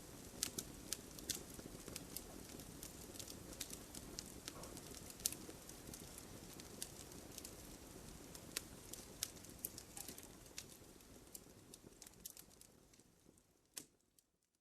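Wood fire crackling in a fireplace: irregular sharp pops and snaps from the burning logs over a soft low rush of flame. It fades away near the end.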